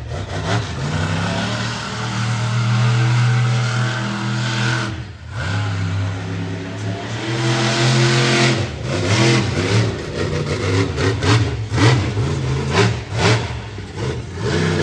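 Monster truck engine revving hard. The throttle cuts off sharply about five seconds in, then climbs again and breaks into choppy, rapid throttle stabs in the last few seconds.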